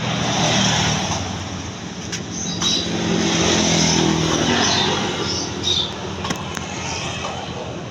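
Yamaha Alfa two-stroke motorcycle engine running and being revved, swelling louder about half a second in and again from about three to four and a half seconds.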